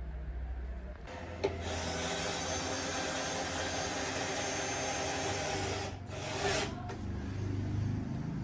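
A power tool running for about five seconds with a steady whine, stopping, then running again briefly, over a low steady hum.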